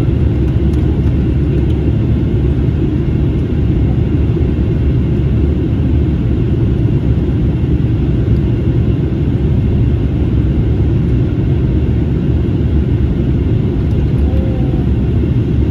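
Steady rumble and rush inside the cabin of an Airbus A321neo airliner in flight: engine noise and airflow heard from a seat near the back.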